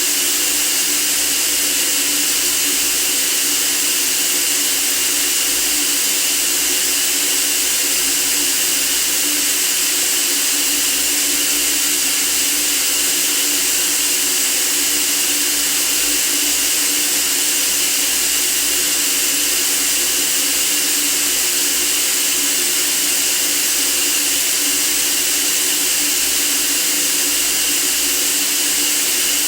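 White noise for sleep: a steady, bright hiss that does not change at all.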